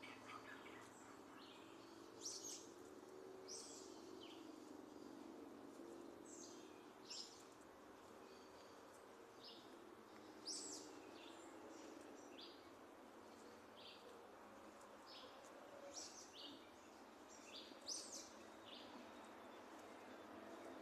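Small birds chirping: short, high chirps scattered irregularly throughout, over a faint steady background hum.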